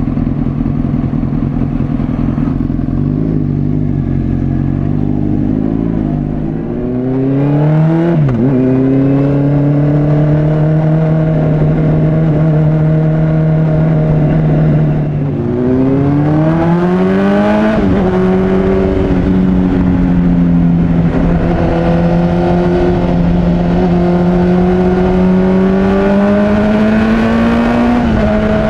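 Honda CBR600RR's inline-four engine under way, pulling up through the revs about seven seconds in and dropping as it shifts up. It holds a steady cruise, then climbs again and shifts up once more at about eighteen seconds before cruising with the revs slowly rising.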